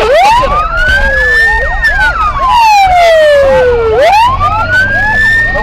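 Russian police car sirens wailing. The loudest rises quickly to a high pitch and falls slowly, twice, over a second siren's quick repeating yelps, with engine and road rumble underneath. The sound cuts off abruptly at the very end.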